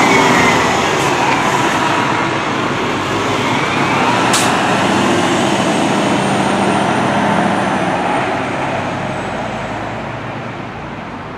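Fire apparatus siren wailing, its rising and falling tone over heavy vehicle and traffic noise, fading away near the end. A single sharp click about four seconds in.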